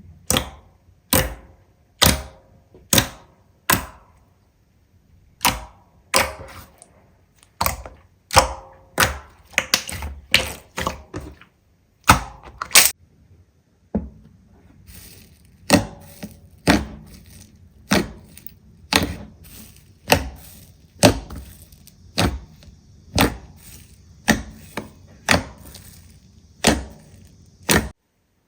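Slime being pressed and worked by hand, giving a string of sharp clicking pops about one a second. About halfway through, a faint steady hiss runs under the pops.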